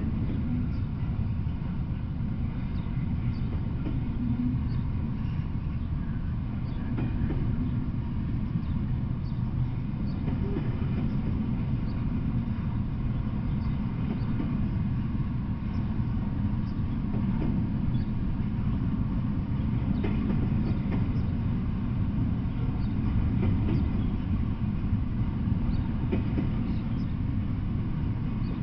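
Double-stack intermodal freight train rolling past at steady speed: a continuous low rumble of wheels on rail, with scattered faint clicks.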